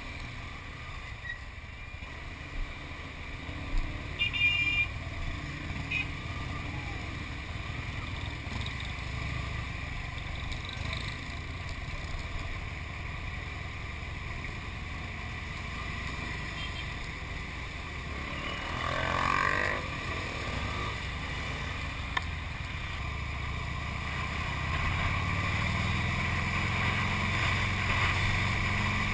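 Harley-Davidson V-twin engine running at low speed in slow, stop-and-go traffic, a steady low rumble that grows louder near the end as the bike picks up speed, with surrounding traffic noise. A short beep comes about four seconds in, and a brief louder swell comes about two-thirds of the way through.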